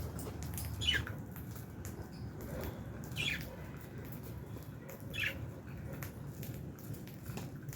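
Lovebirds calling: three short squawks, each sliding down in pitch, about two seconds apart, over frequent small clicks and taps.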